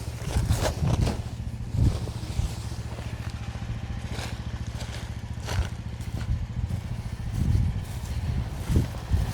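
QH13R mini excavator's small engine running steadily, with several brief clunks and scrapes of the machine at work.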